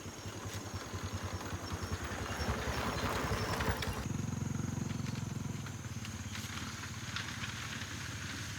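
An engine running, growing louder over the first few seconds. About four seconds in its sound changes abruptly to a steadier, lower hum.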